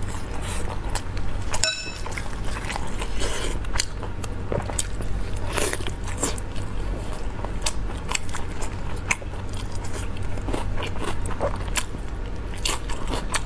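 Close-miked eating sounds: biting and chewing meat off a chili-sauced beef bone, with many short wet mouth clicks and smacks over a steady low hum.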